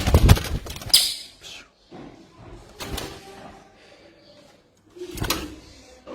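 Cililin (crested jay) calling: a few loud, harsh calls, at the start, about a second in, near three seconds and around five seconds, with quieter chatter between.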